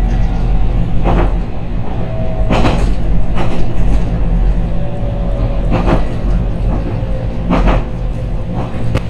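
Inside a JR Kyushu 813 series electric train car: a steady low hum, a knock or clack every one to three seconds, and a faint tone that slowly falls in pitch.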